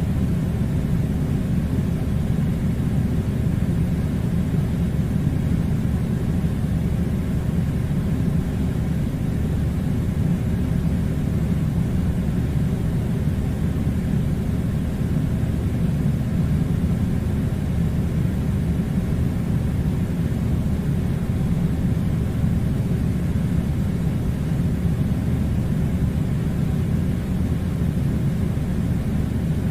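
Air conditioner running: a steady low hum and hiss that does not change.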